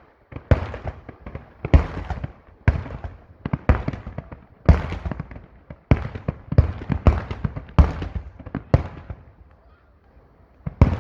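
Fireworks bursting in a quick string of loud bangs, roughly one a second, each trailing off. They break off for a couple of seconds near the end before another burst goes off.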